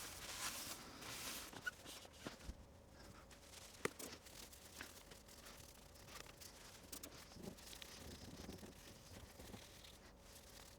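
Faint rubbing and scrubbing with scattered small clicks and knocks, mostly in the first second or so, from the inside of a Performa 580CD's plastic case and parts being cleaned and handled. A faint steady hum runs underneath.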